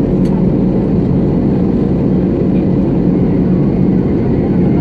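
Steady, loud, low rumble of jet engines and rushing air inside the cabin of an Airbus A320-family airliner climbing after takeoff.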